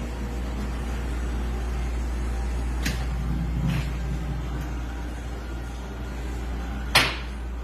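Valve-seat cutting machine running steadily while hardened exhaust valve seats are cut in cast-iron Oldsmobile 455 cylinder heads, with a couple of light clicks midway and one sharp knock about seven seconds in.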